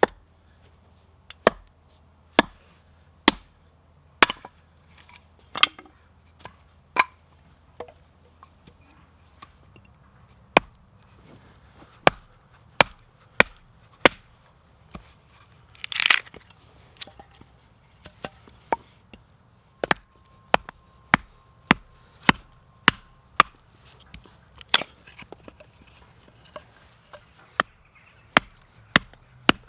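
Axe blows on firewood, a sharp strike roughly once a second, with one louder, longer crack about sixteen seconds in.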